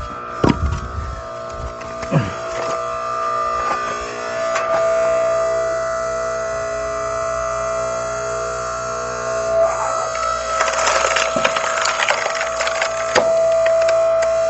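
Hydraulic log splitter running with a steady whine that swells as the ram pushes into the log. Wood cracks and splinters as a log splits about ten to thirteen seconds in, ending in a sharp crack.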